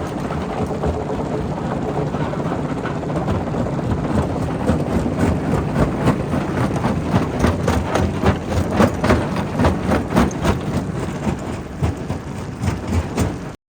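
Primary rock crusher running with a heavy steady rumble, overlaid by rapid sharp cracks and knocks of stone being broken and rattling. The cracks grow denser about four seconds in, and everything cuts off abruptly near the end.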